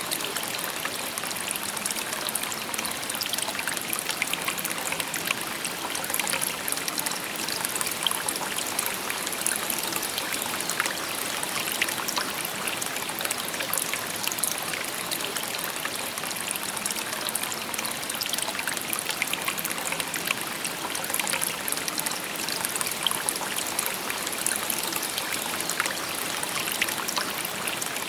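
A shallow stream babbling and trickling steadily over stones, with many small splashes and gurgles.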